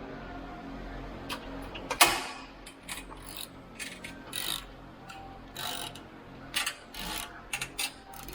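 Workshop handling sounds: scattered clicks and clanks of metal tools and parts, over a low steady hum, with one loud knock about two seconds in.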